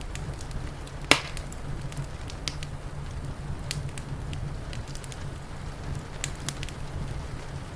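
Wood fire crackling with scattered sharp pops and one loud pop about a second in, over a steady low rumble.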